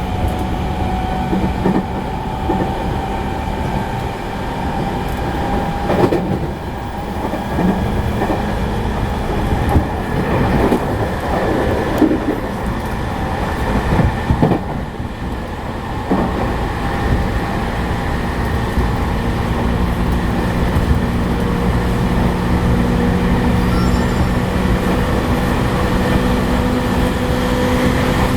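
Inside a JR East E217 series commuter train's motor car running at speed: a steady rumble of wheels on rail with a few short clacks, likely at rail joints, in the first half. A motor tone sinks slightly early on, and a lower tone climbs in pitch over the last third.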